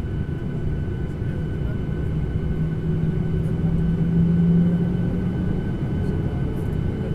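Steady rumble of the cabin of an airliner, with thin steady whining tones above it. A low hum swells louder about halfway through, then eases off.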